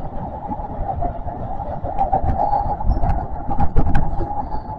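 Kintetsu electric train running on rails, heard from inside the car: a steady running hum over a low rumble, with a cluster of sharp wheel clicks and knocks over rail joints in the second half.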